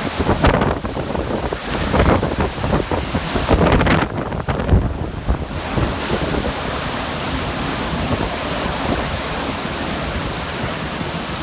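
Typhoon wind buffeting the microphone in strong gusts, then settling into a steady rush about six seconds in.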